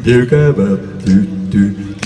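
A man's voice in short phrases with held pitches, somewhere between speaking and chanting, with no instruments yet.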